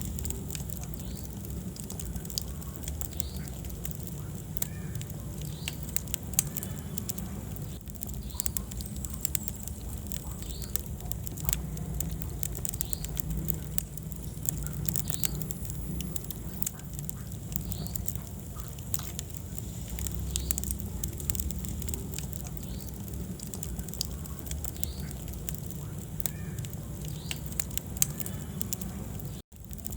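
Wood fire burning in a fireplace: a steady low rumble of flames with frequent sharp crackles and pops, and a brief cut to silence near the end.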